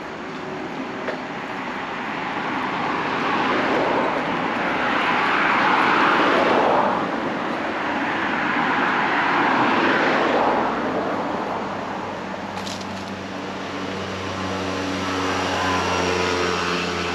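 Road traffic: two vehicles pass one after the other with a rising and fading rush of tyre and engine noise. From about twelve seconds in, a steady low engine hum of a running vehicle takes over.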